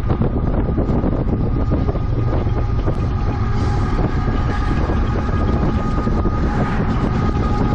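Union Pacific mixed freight train running at speed, heard from alongside it while pacing: a steady low rumble mixed with wind noise on the microphone. A faint steady whine rises in the second half.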